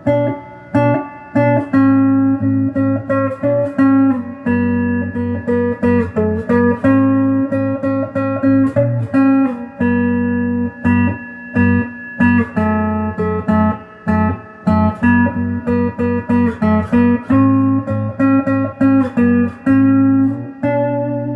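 Donner DLP124 electric guitar on its stock neck pickup, played through an amp with a clean tone: a run of quickly repeated picked notes and chords, with some chords left ringing.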